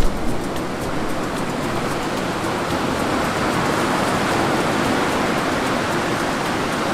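Rough-sea surf: a steady rush of breaking waves that swells to a peak around the middle and eases slightly.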